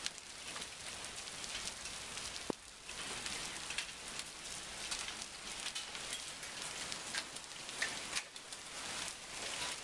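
Thunderstorm rain falling steadily, a dense patter of drops hitting close by. A single sharp click comes about two and a half seconds in.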